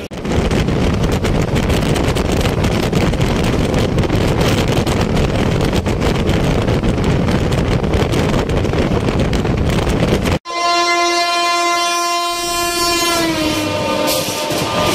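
Express train running at speed, heard from an open coach doorway as a loud, steady rush of wheel and wind noise. About ten seconds in the sound cuts off abruptly and a long train horn sounds from a train passing on the next track. The horn drops in pitch as that train goes by, and the running noise of the passing coaches follows.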